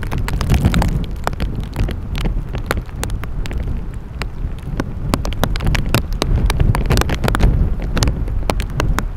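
Strong wind buffeting the microphone with a heavy low rumble, while raindrops strike close by as many sharp, irregular ticks.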